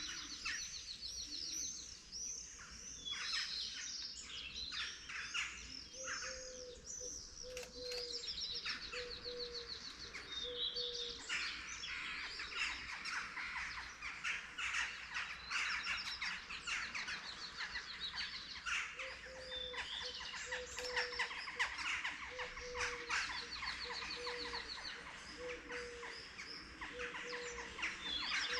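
Dawn chorus of many songbirds, with overlapping chirps and rapid trills. Through much of it a bird repeats a low, short note in an even series.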